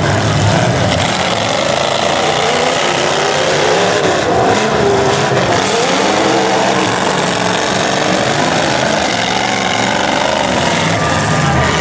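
Several demolition derby cars' engines revving hard at once, their pitch rising and falling as the cars push and ram each other.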